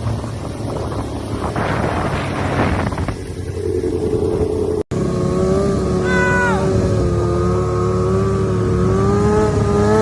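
Motorcycle engines running, with a sudden cut about halfway through. The first half is rough and noisy; the second is a steady engine note that rises a little near the end, with a brief falling whine about six seconds in.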